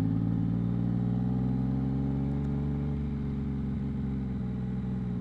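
A 2022 Yamaha MT-09's 890 cc inline-three engine running steadily through a Two Brothers aftermarket exhaust, its note easing down slightly in pitch over the last couple of seconds.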